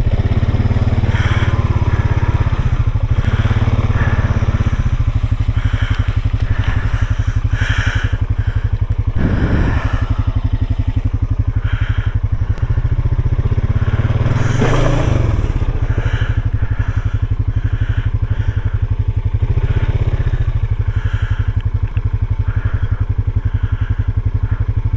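Small off-road vehicle engine idling steadily, with a few brief scuffs and crunches over it.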